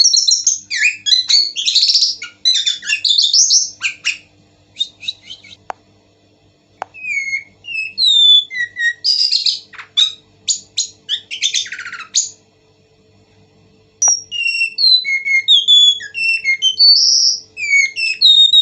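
A ciung batu (whistling thrush) singing vigorously: bursts of rapid chattering notes alternate with short, clear, slurred whistles. The song breaks off for a couple of seconds two-thirds of the way through, then resumes as a run of separate whistled notes.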